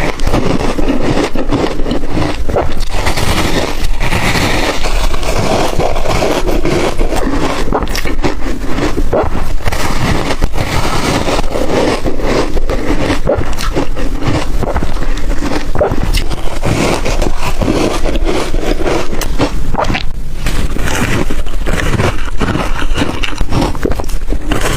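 Ice dusted with matcha and milk powder being bitten and chewed in the mouth: a continuous run of loud, crackly crunches.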